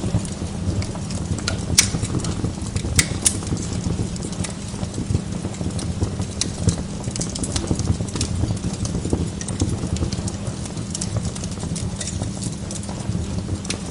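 Wood log fire in a fireplace crackling continuously over a low, steady rumble of flame, with a few louder, sharper pops about two and three seconds in.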